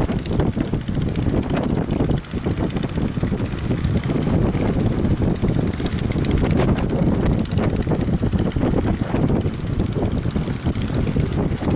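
Strong wind buffeting the microphone: a loud, gusty rumble.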